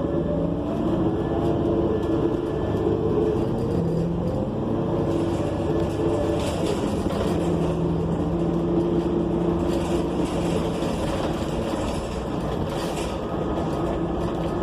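New Flyer XN40 city bus under way, heard from inside: its Cummins Westport ISL G natural-gas engine and Allison transmission give a continuous drone over road noise. The drone's pitch shifts up and down as the bus changes speed.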